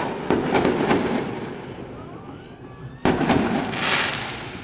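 Fireworks exploding: a rapid run of crackling pops in the first second that dies away, then a single loud bang about three seconds in, followed by a crackling hiss.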